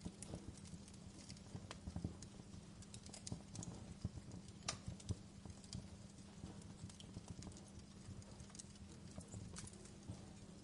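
Fireplace crackling: irregular sharp pops and snaps over a low steady hum.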